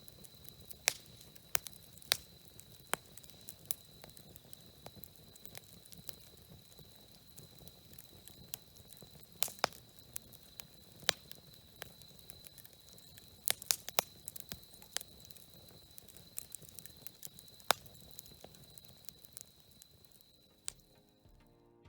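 Wood campfire crackling, with irregular sharp pops over a low hiss.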